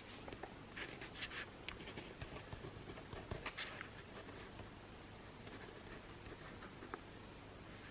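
Faint scratching of writing on paper: short pen strokes come in clusters in the first half, then thin out to a few light taps.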